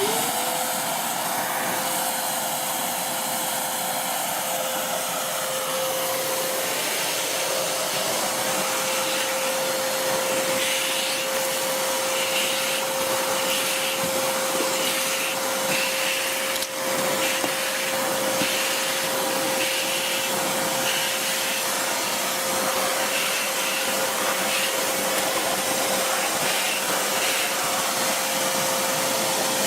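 ALEKO VWD411 portable wet/dry shop vacuum switched on: its motor spins up in the first moment to a steady whine over a loud rush of air and runs on steadily. From about ten seconds in, a rougher hiss comes and goes over it as the nozzle is worked.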